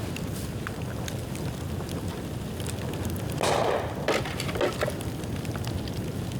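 Dry bamboo burning in an open bonfire, crackling with scattered sharp ticks and snaps. About halfway through there is a louder half-second burst, followed by three quick pops.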